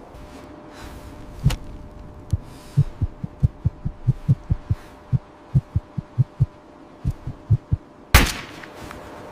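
A run of low, dull thuds, two to three a second for about five seconds, followed by one loud, sharp impact near the end. A faint steady hum sits underneath.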